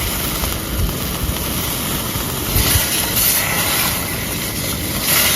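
Chunks of eggplant frying in oil and soy sauce in a small pan: a steady sizzle over a low rumble, with louder hissing surges about two and a half seconds in and again near the end.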